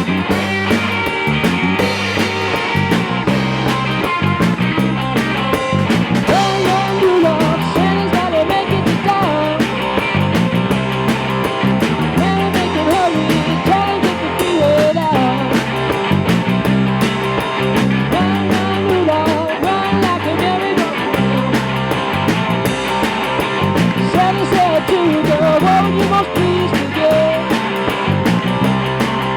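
Rock band playing: drum kit, bass guitar and electric guitar, with a steady repeating bass line and a bending melody line over it.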